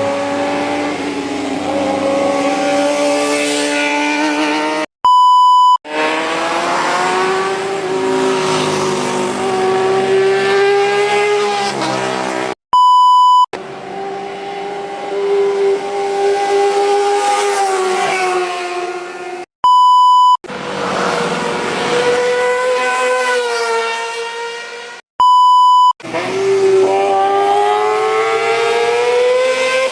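Kawasaki ZX-25R motorcycles' 250 cc inline-four engines revving very high as they ride past, in several short passes one after another, the pitch climbing and falling with each. A short electronic beep cuts in between the passes, four times.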